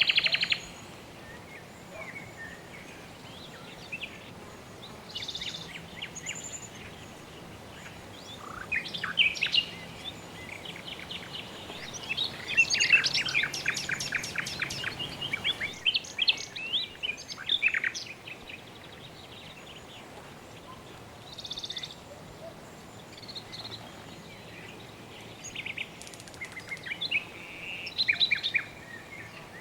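Several birds chirping and trilling in scattered bouts, busiest in the middle, over a soft steady background hiss.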